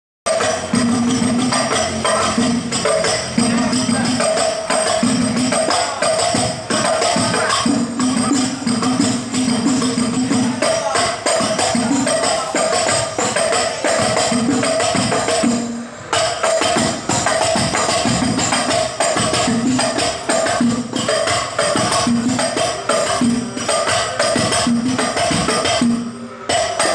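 Al Banjari hadrah ensemble playing rebana (terbang) frame drums in a fast interlocking rhythm, with a low drum tone and a higher ringing tone alternating over sharp slaps and jingles. The playing drops out for a moment just before sixteen seconds and again shortly before the end.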